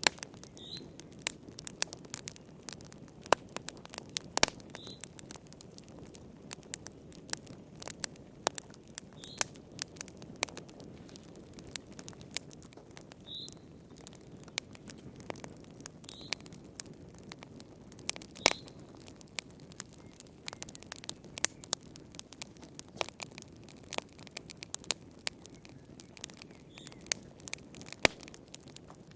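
Wood fire burning in a fireplace, crackling with irregular sharp pops of varying loudness over a steady low rustle.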